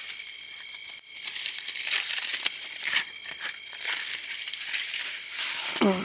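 Crinkling and rustling of the wrapping on a food parcel from the campfire as it is pulled open by hand.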